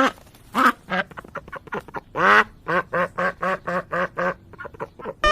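A string of short animal calls: a longer rising-and-falling cry about two seconds in, then a quick run of short, evenly spaced calls about four a second.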